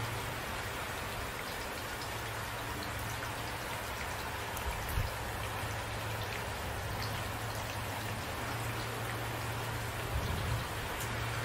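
Steady rain falling, a dense hiss with single drops ticking through it. There is a steady low hum underneath, and brief low thumps about five seconds and about ten seconds in.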